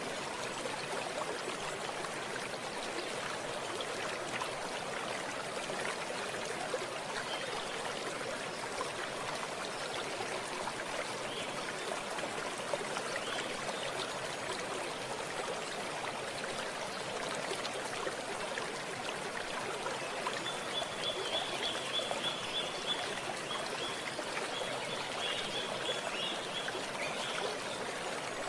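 Running water of a stream flowing and trickling in a steady, even rush. From about twenty seconds in, a high, rapid trill sounds over it for several seconds.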